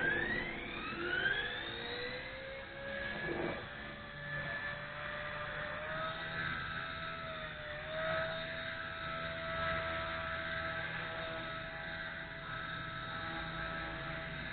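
Brushless motor and rotor of a WLtoys V930 RC helicopter spooling up from rest, its whine rising in pitch over the first couple of seconds, then running at a steady whirring pitch.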